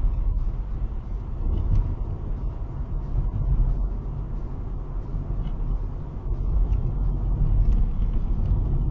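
Low, steady rumble of a motor vehicle on the road, growing somewhat louder in the last few seconds.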